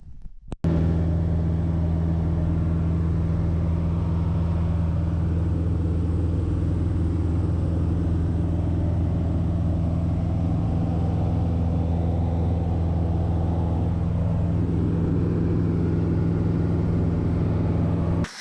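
Small bush plane's piston engine running at a steady power setting. It cuts in abruptly about half a second in and cuts off just before the end.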